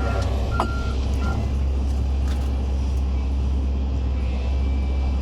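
Excavator diesel engine running steadily under work, a deep continuous drone, with a few brief high squeaks in the first second and a half.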